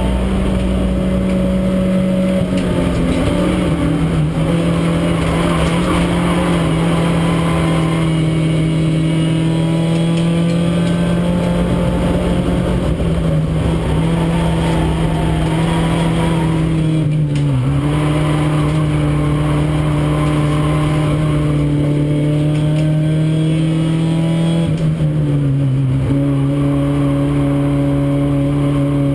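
Renault Clio race car's engine heard from inside the cabin, running hard under load with a steady note over wind and road noise. The note steps down in pitch about two seconds in and again near the end, with a brief dip around the middle.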